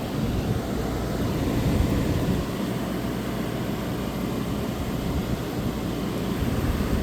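1985 White Westinghouse 5900 BTU air conditioner running with its rotary compressor on, its fan blowing a steady rush of air.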